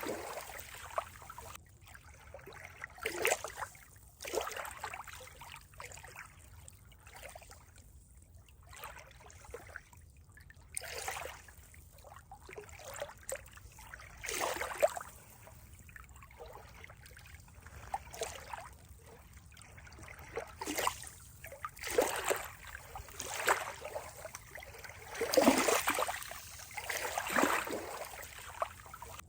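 Water trickling and splashing in irregular swishes every second or two, with a few louder splashes near the end.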